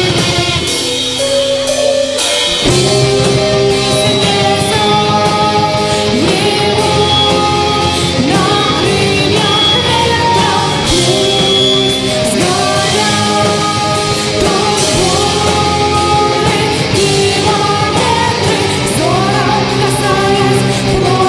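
Heavy rock music: held and sliding electric guitar or vocal lines over driving drums.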